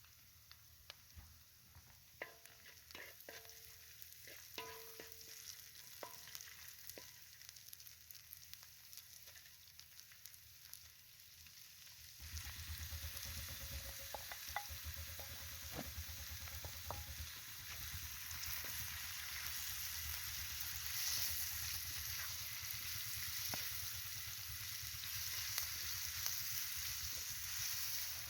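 Food frying in a hot pan while it is stirred, with a utensil clinking and scraping against metal. About twelve seconds in, the sizzling suddenly becomes much louder and continuous.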